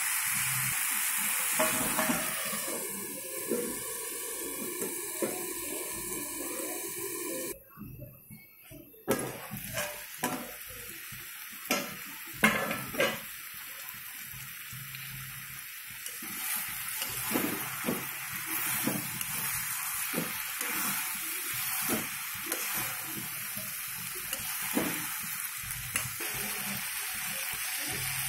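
Chicken pieces sizzling as they fry in oil in a metal wok, with a metal spatula scraping and knocking against the pan. The sizzle drops out briefly about a third of the way through, and the spatula knocks come thickest just after.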